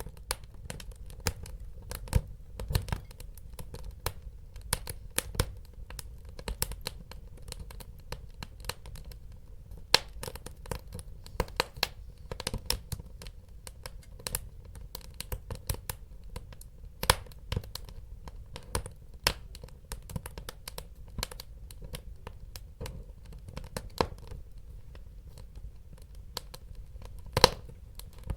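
Wood fire crackling in a fireplace: irregular sharp pops and snaps, several a second, over a low steady rumble of the burning wood. A few louder pops stand out, about ten seconds in, around seventeen seconds in and near the end.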